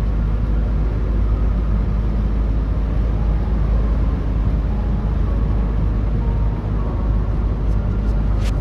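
Steady low rumble of engine and road noise inside a Toyota Tacoma pickup's cab while it drives along, with a sharp click near the end.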